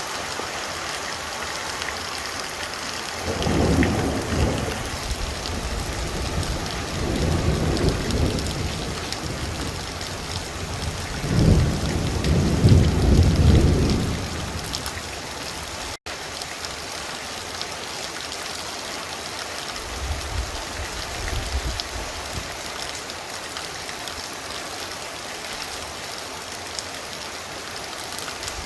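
Heavy rain pouring steadily with rolls of thunder rumbling in the low end: one about three seconds in, another around eight seconds, the loudest from about eleven to fourteen seconds, and a fainter one past twenty seconds.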